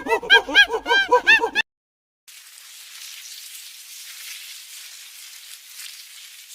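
A quick series of pitched, arching animal calls that cuts off about a second and a half in. After a short silence comes a steady hiss like rain, with no low sound under it.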